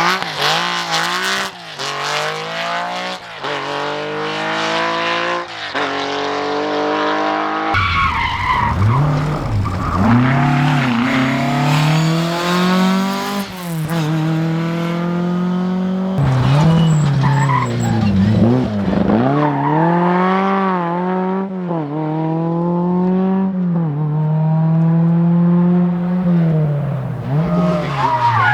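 Rally car engines revving hard, the pitch climbing through one gear after another and dropping back as the drivers come off the throttle, over several short passes cut together.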